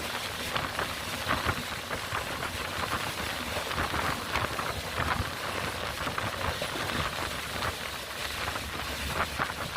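Heavy rain pattering on a passenger train running at speed, over the steady rumble of the moving train.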